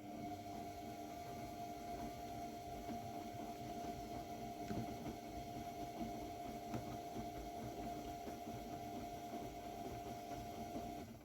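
AEG Lavamat W 1450 washing machine running, its motor whining at a steady pitch over a low rumble. It cuts off suddenly near the end.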